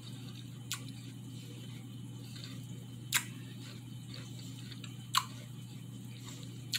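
Close-up chewing of raw apple with peanut butter: four short, sharp crisp clicks spaced a second and a half to two and a half seconds apart, over a low steady hum.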